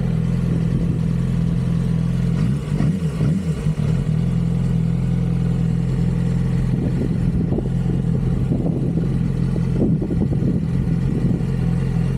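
Vehicle engine running at a steady speed, a constant drone with a brief wavering in pitch about three seconds in.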